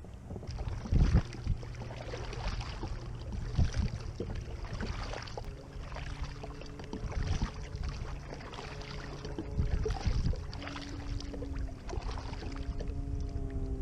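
Water splashing and sloshing around a kayak, with irregular thumps and bumps on the hull every second or two over a steady low rumble.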